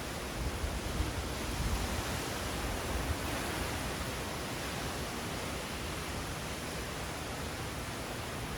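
Steady rush of hurricane wind and rain, with wind buffeting the microphone in low gusts during the first few seconds.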